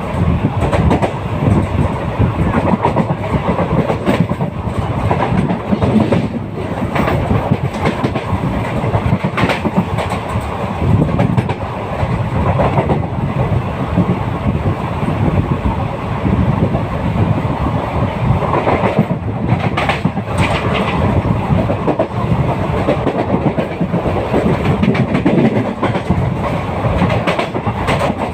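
A train running steadily, its wheels clacking over the rail joints under a continuous rumble and rattle, with now and then a sharper click.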